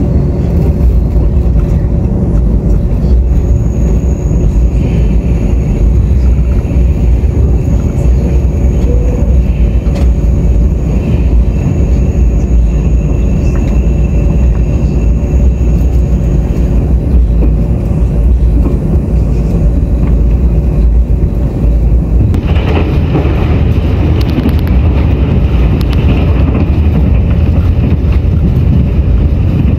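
Loud, steady running rumble of a Tze-Chiang express train heard from inside the passenger car, with a low hum. About two-thirds of the way through, a harsher rushing noise joins in and stays.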